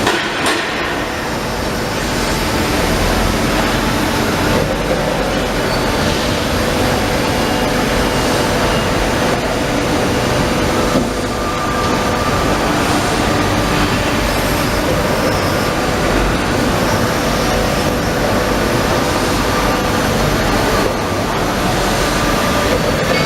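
Edwards Pearson CNC hydraulic press brake running: the steady hum of its hydraulic power pack, with faint whining tones over it and brief changes in the noise about midway and near the end.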